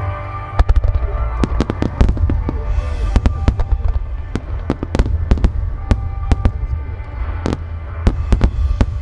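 A dense barrage of aerial firework shells bursting: dozens of sharp bangs in quick, irregular succession over a deep, continuous rumble. Music plays steadily underneath.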